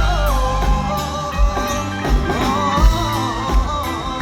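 A live band playing a Thai song between sung lines: a steady drum-and-bass beat under a lead melody line that bends and wavers in pitch.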